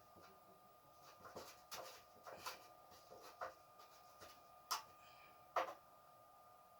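Scattered light clicks and taps of a screwdriver and metal gas-stove parts as screws are being tightened, with two louder knocks a little after the middle. A faint steady high whine runs underneath.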